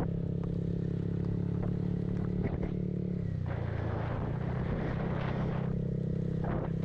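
Vehicle engine running at a steady speed while driving in rain, with a rushing hiss that swells for about two seconds in the middle.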